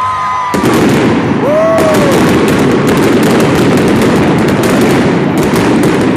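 A monster truck's engine, suddenly opened to full throttle about half a second in, running loud with a dense, rapid crackle. A crowd whoops and cheers over it.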